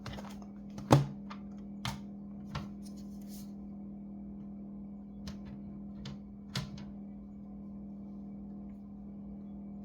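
A few light clicks and knocks of small hard parts or tools being handled on a work surface, the loudest about a second in, the rest spread over the next six seconds, over a steady low hum.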